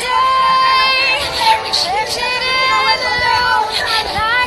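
A woman singing a slow worship song over soft backing music, holding long notes.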